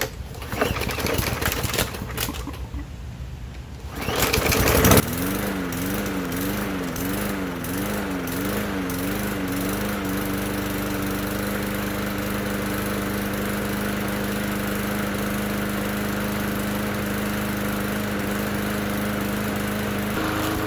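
Bolens push mower's small gasoline engine starting about four to five seconds in after some clattering, then running. Its speed surges up and down about once a second for the first five seconds before settling into a steady run.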